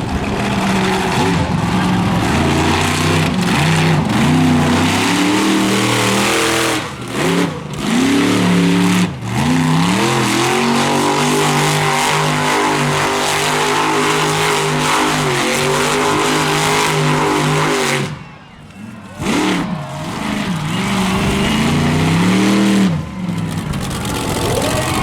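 Monster truck's big-block engine revving hard, its pitch climbing and falling again and again as the throttle is worked, with a long held high-rpm stretch in the middle. About 18 seconds in the engine note drops away sharply for about a second, then picks up and revs again.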